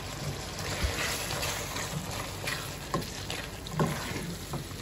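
Mutton liver pieces in masala sizzling in a metal pot as the cooking liquid dries off, stirred with a wooden spatula that knocks lightly against the pot a few times.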